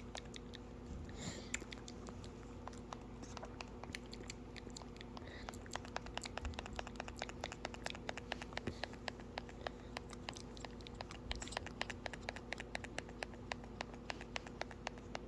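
Parrot making rapid small clicks and scratches, sparse at first and then several a second from about five seconds in, over a steady low hum.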